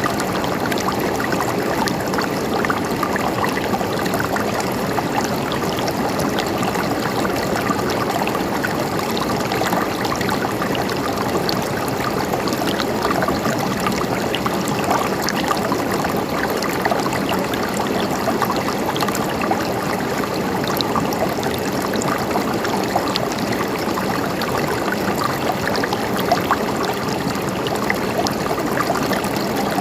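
River water flowing steadily over stones, a continuous gurgling rush with many small splashes.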